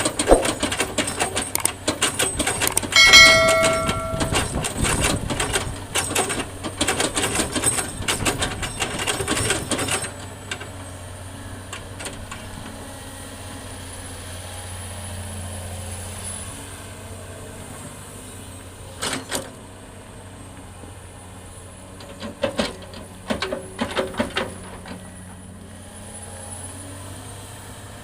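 Fill soil and stones pouring into a dump truck's steel bed with dense clattering, loud for the first ten seconds, with a short high tone about three seconds in. After that, the truck's diesel engine runs steadily at a low hum, with a few brief clanks.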